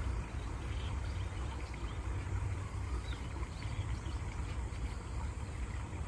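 Steady water sound with a low rumble, and short faint bird chirps scattered through it.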